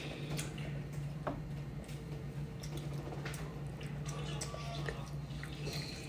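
A child chewing pizza with scattered soft, wet mouth clicks and smacks, over a steady low hum.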